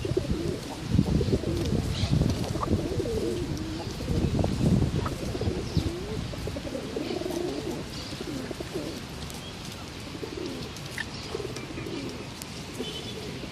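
Pigeons cooing over and over, in many short wavering calls. Low rumbling noise, loudest in the first five seconds, runs underneath.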